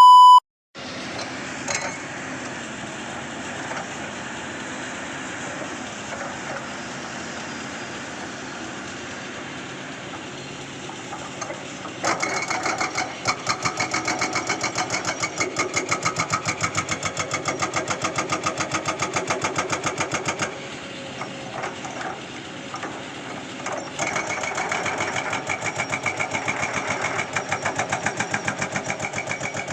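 Caterpillar excavator's diesel engine running steadily. About twelve seconds in, and again near the end, come spells of fast, even hammering, several blows a second, from a hydraulic rock breaker pounding rock. A short beep sounds at the very start.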